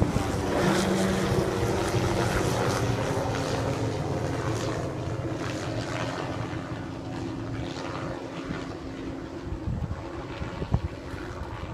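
Police helicopter flying overhead: a steady drone of rotor and engine that slowly fades as it moves away.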